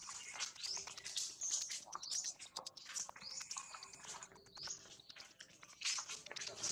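Birds chirping: short, high, sweeping calls that repeat about once a second, with scattered faint clicks.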